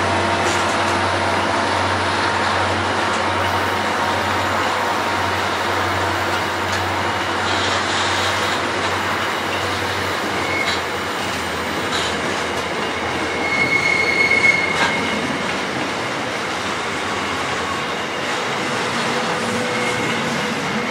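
Grain hopper wagons of a freight train rolling steadily past, with a continuous rumble of steel wheels on rail. A high, thin wheel squeal rises about two-thirds of the way through, with a few sharp clicks from the wheels around it.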